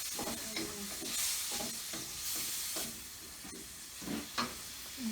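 Fried rice sizzling in a hot pan while a spatula stirs it, with repeated short scrapes and knocks of the utensil against the pan.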